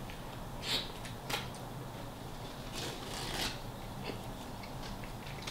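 A person biting into and chewing a toasted Philly cheesesteak sub, with a few short crunches of the crust. The crunches come less than a second in, again at about a second and a half, and again around three seconds.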